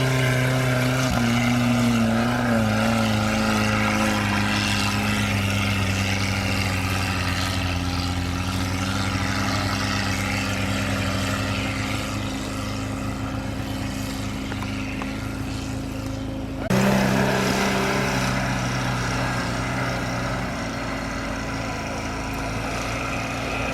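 An off-road vehicle's engine running steadily at a fairly constant pitch. About seventeen seconds in, the sound changes abruptly and gets louder.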